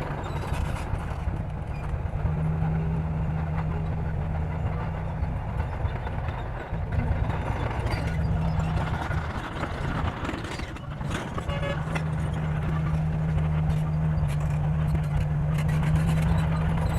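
Bulldozer's diesel engine running under load, a steady low hum that eases off briefly twice before picking up again.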